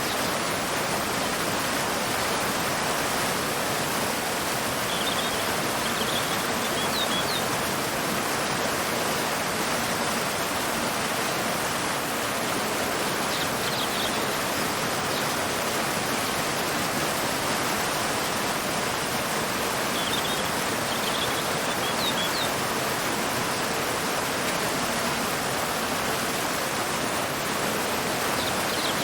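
Waterfall pouring into a river: a steady, even rush of water. Small clusters of short, high bird chirps come every several seconds.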